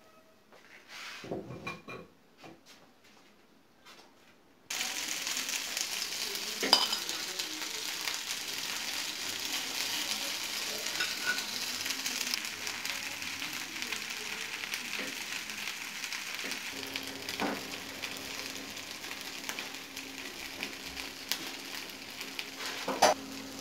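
Cheese-filled instant-noodle patties sizzling steadily in shallow oil in a nonstick frying pan. The sizzle starts abruptly about five seconds in, after a few faint clicks, and a few light knocks, most likely the spatula, are heard over it.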